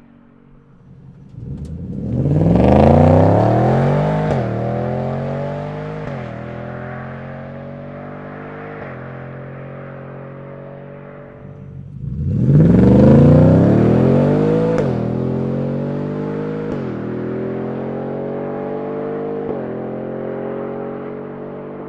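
Ford F-150 Raptor R's supercharged 5.2 L V8 through an AWE SwitchPath exhaust, making two hard full-throttle accelerations. In each pull the note climbs steeply, then dips and climbs again at three upshifts.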